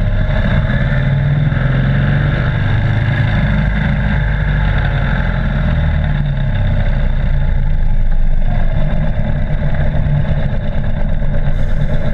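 Police motorcycle engine running at low speed through a cone course, heard close up from a camera mounted low on the bike, its level rising and falling slightly.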